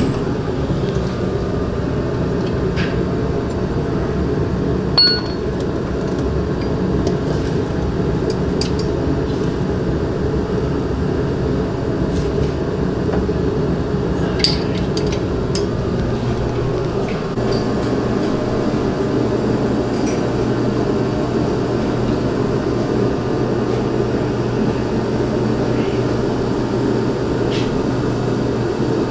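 Metal hand tools clinking and tapping now and then during drivetrain work under a car, over a steady low drone. The clinks are scattered and sharpest about five seconds in and near the middle.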